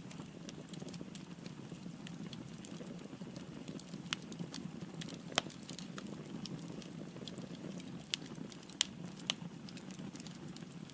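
Firewood burning in a fireplace: a steady low rumble of flame with scattered crackles and sharp pops, the loudest about four and five seconds in and twice near nine seconds.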